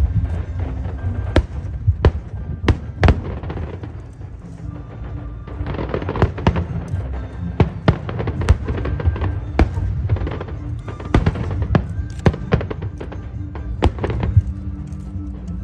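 Fireworks bursting in a rapid, irregular series of sharp bangs, with music playing underneath.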